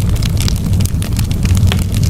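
Campfire burning, with frequent sharp crackles and pops of the wood over a steady low rumble.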